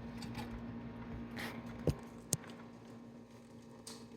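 Two short, sharp clicks about half a second apart, roughly two seconds in, from parts or tools being handled on a riding mower's wheel hub, over a faint steady hum.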